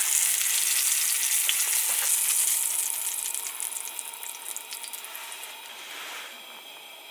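A sizzling, crackling hiss that dies down over the second half.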